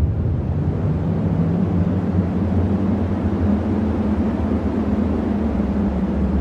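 Cyclone wind blowing steadily and hard: a deep low rumble with a fainter rushing hiss above it.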